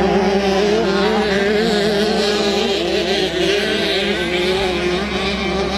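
Several 65cc two-stroke motocross bikes racing, their engines revving up and down over one another in a steady, wavering whine.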